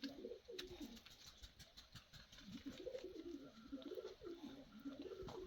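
Pigeons cooing softly, low coos rising and falling in repeated phrases.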